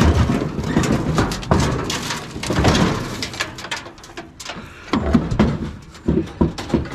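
Scrap being dragged and shifted around in a crowded load, with scraping and repeated knocks and clunks as items are jockeyed into position.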